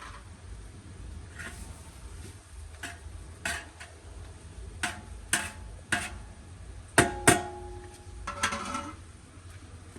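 Utensils and dishes clinking: scattered light clicks, with two sharp ringing clinks close together about seven seconds in, over a low steady hum.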